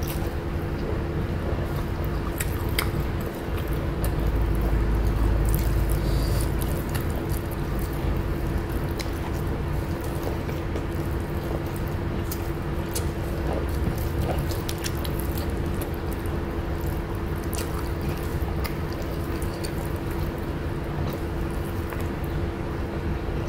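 Close-miked eating sounds: a person chewing mouthfuls of rice and raw vegetables and working rice on the plate with the fingers, with scattered small wet clicks and squishes. A steady low hum runs underneath, and a low rumble swells for a couple of seconds around four seconds in.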